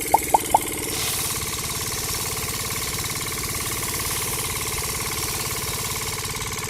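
A small engine running steadily with a fast, even knocking beat and a whine, opened by four short high chirps in the first half second.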